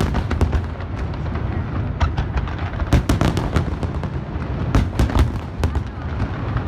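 Aerial fireworks shells bursting in quick succession: many sharp bangs and crackles over a continuous low rumble, the loudest about three seconds in and again around five seconds.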